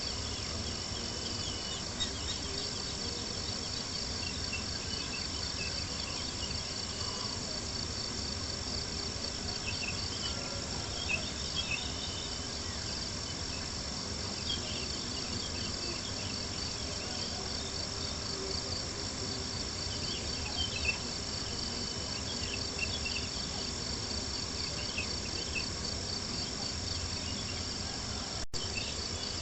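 Crickets chirping in a steady, fast-pulsing trill, with occasional soft crackles and pops of a campfire.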